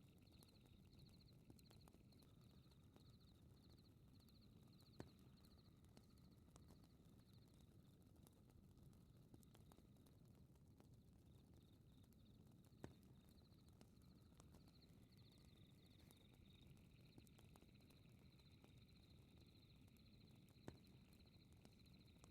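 Faint fireplace crackling, a low steady rumble with a sharp pop about every eight seconds, under rapid, high chirping of night insects.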